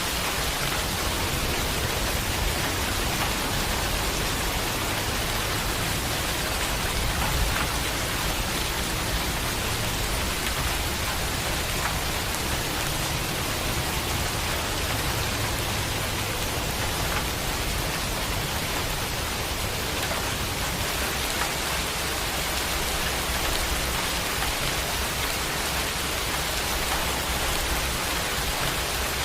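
Steady heavy rain falling on surfaces, an even hiss with a low rumble underneath and a few single drops ticking.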